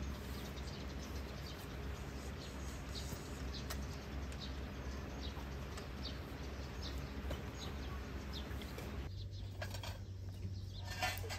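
Outdoor ambience with many short bird chirps over a low steady background. About nine seconds in the background changes, and a few sharp clicks and rattles of handled gear come through near the end.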